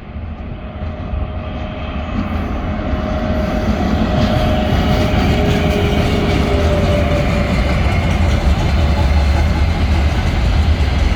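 Freight train hauled by a 2ES5K electric locomotive approaching, a deep rail rumble that grows steadily louder over the first few seconds and then holds.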